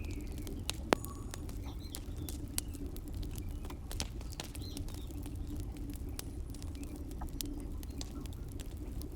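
Soldering a phone's charging-port joints with tin: small irregular clicks and crackles over a steady low hum, with one sharper click about a second in.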